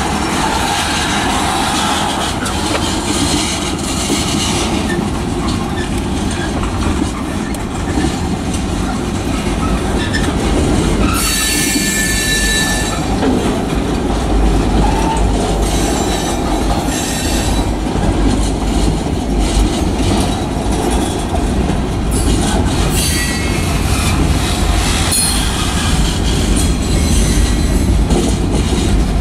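Freight cars (tank cars and covered hoppers) of a manifest train rolling past close by: a steady rumble of steel wheels on the rails. High, thin wheel squeal rises above it a little over a third of the way through, and a few shorter squeals come later.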